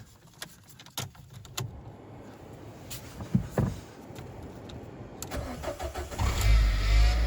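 A few clicks and knocks, then a car engine cranks briefly and catches about six seconds in, settling into a steady run with a thin high squeal over it. The squeal remains with the alternator refitted and unplugged, so it is not the alternator bearings.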